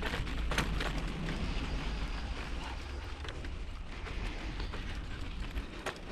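Bicycle riding over a forest dirt track: a steady rolling noise and low rumble, with scattered sharp clicks and rattles from the bike going over bumps.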